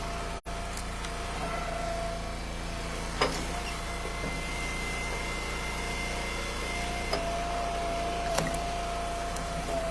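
Eastonmade Ultra wood splitter's engine running steadily, with a high steady whine for a few seconds in the middle and two sharp knocks, about 3 s and 8.5 s in. The audio drops out for a split second near the start.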